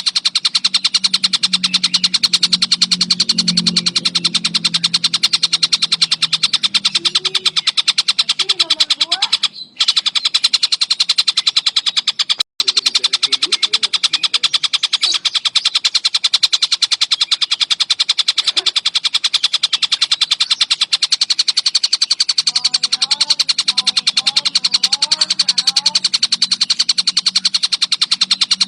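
Tengkek buto kingfisher chattering in a fast, dense rapid-fire rattle of high notes. It cuts out briefly twice, about ten and twelve and a half seconds in.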